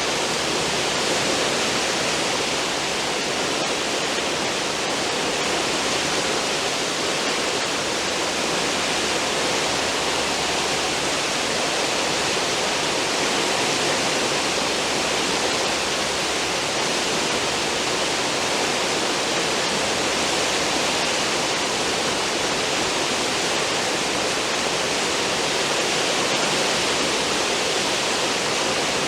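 Churning water of a cruise ship's stern wake, a steady, unbroken rushing hiss.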